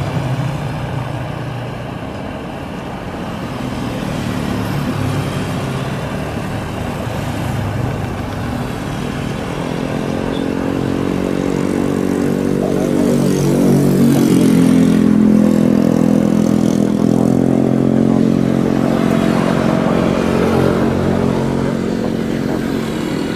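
A road vehicle's engine running as it passes close by, with a slowly shifting pitch, growing louder to a peak a little past the middle and then easing off.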